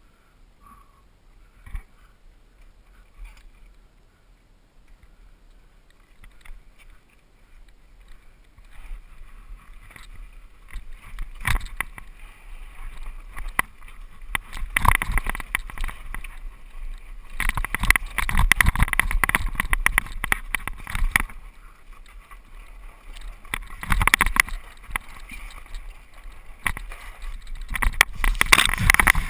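Mountain bike descending a rough dirt trail: tyre noise with rapid clatter and rattling from the bike over bumps. It starts faint, then grows much louder and rougher from about ten seconds in, with the loudest rough stretches in the middle and near the end.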